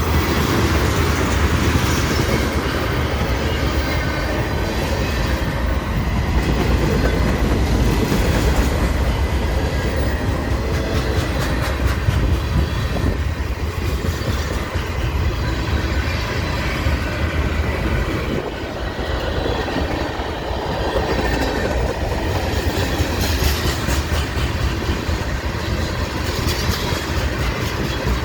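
Freight train cars rolling past at close range: a steady rumble of steel wheels on rail, with continual clicking as the wheels cross rail joints.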